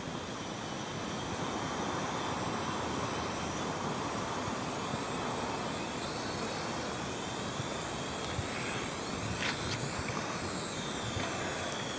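Quadcopter drone in flight: a steady rushing noise with the faint high whine of its motors gliding up and down in pitch a little past halfway and again near the end.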